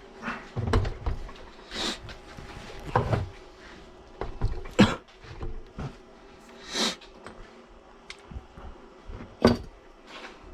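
Irregular knocks, clunks and short scrapes of objects being handled and set down, about eight distinct strikes with quieter rattles between.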